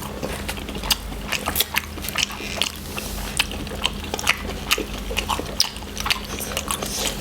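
People chewing spicy noodles with their mouths close to the microphone: an irregular run of short, wet clicks and smacks.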